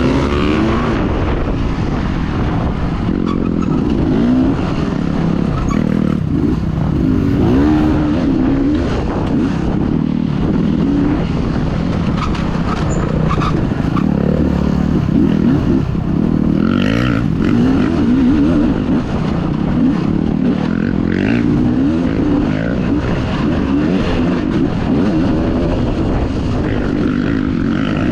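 Dirt bike engine running under hard throttle, its pitch rising and falling over and over as the rider accelerates and backs off through rough track sections.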